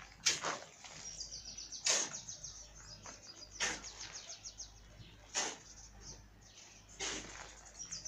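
A bird singing a fast, high trill of rapidly repeated notes for about two seconds, starting about a second in. Over it come five sharp crunches, spaced about a second and a half to two seconds apart, which are the loudest sounds.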